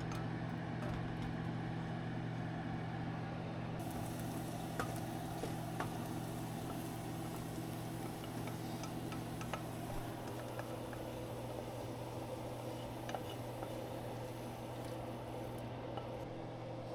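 Food sizzling in a frying pan, the hiss starting about four seconds in and easing off near the end, over a steady low hum and a few light clicks.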